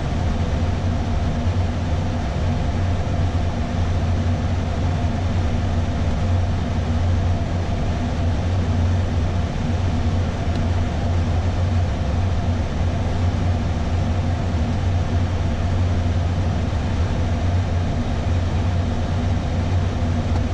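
Steady flight-deck noise of an Airbus A320 in flight on approach: a constant low hum with airflow rush and faint steady tones, unchanging throughout.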